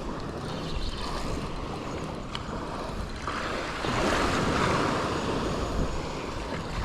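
Wind rushing over the microphone with waves washing ashore, swelling louder for a couple of seconds midway.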